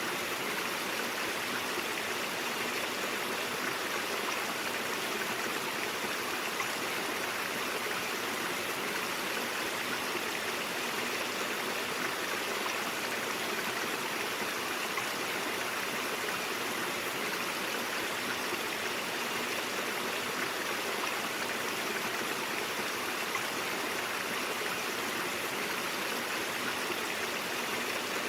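A brook running steadily over rocks: a constant rushing and babbling of flowing water.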